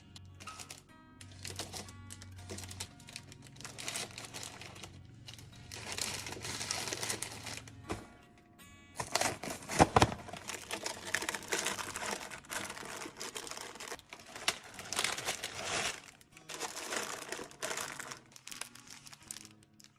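Plastic packaging crinkling and rustling, with irregular clicks and knocks of items being unpacked and put away, over music.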